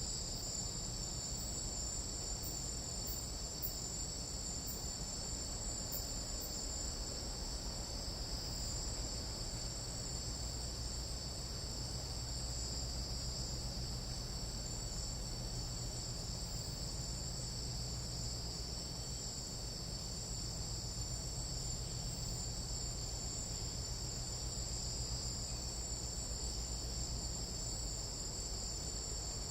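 Tropical jungle night insects: a continuous, unbroken high-pitched chorus in two bands, with a steady low rumble underneath.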